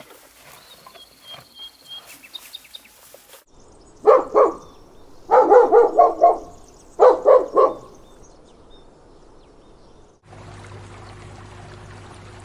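A dog barking: about a dozen loud barks in three quick runs, starting about four seconds in and ending a little before eight seconds. Faint bird chirps come before the barks, and a steady rushing noise begins near the end.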